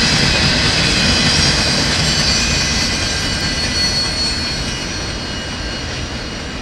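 Freight cars (tank cars and covered hoppers) rolling past on the rails: a steady rumble and wheel-on-rail noise with a thin high whine, fading gradually as the train moves away.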